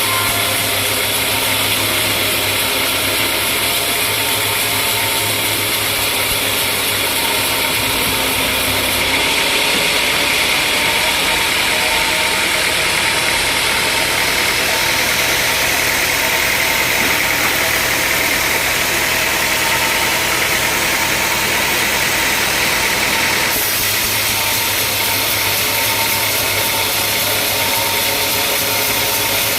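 Sawmill machinery running steadily. A brighter, hissier sound sets in about nine seconds in and drops away about six seconds before the end.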